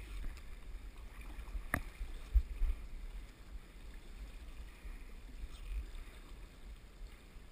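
Wind rumbling and buffeting on the microphone over the faint steady rush of river water, with a sharp click a little under two seconds in and a louder thump just after.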